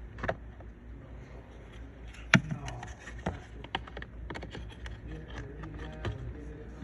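Scattered sharp clicks and knocks of plastic parts being handled, typical of working the cabin air filter housing behind the glove box, over a low steady hum. The loudest knock comes about two seconds in.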